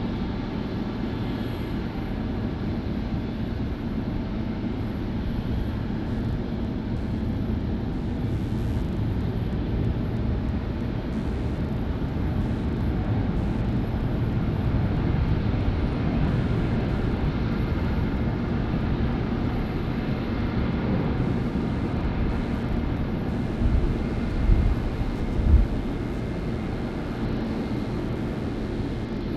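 Jet airliner departing, its engines giving a steady low rumble that swells a little midway through. Three short low thumps come close together near the end.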